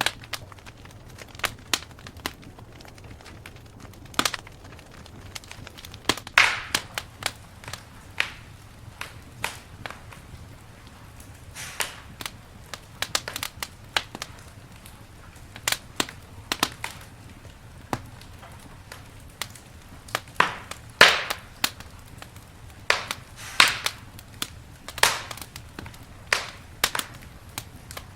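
Wood campfire crackling, with irregular sharp pops and snaps. A few louder pops come near the middle and in the last third, over a faint low steady rumble.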